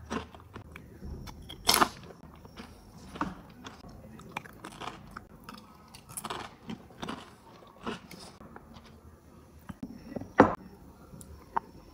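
A person biting and chewing crunchy chips with guacamole: irregular crisp crunches, with a sharp louder crack just after ten seconds.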